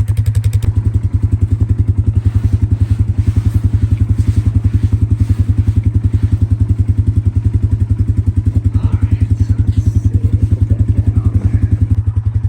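Old Polaris Sportsman ATV engine running at a steady, even idle, warmed up, with a few faint knocks partway through.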